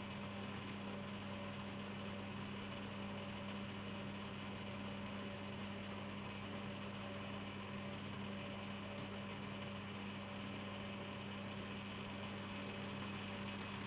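Metal lathe running steadily with a low, even hum while a burnishing tool is worked along a turned steel shaft.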